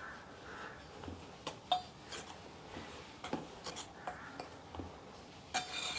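A spoon stirring dry rice flour, semolina and bread crumbs in a bowl: soft scrapes and light clicks against the bowl, irregular, with a longer scrape near the end.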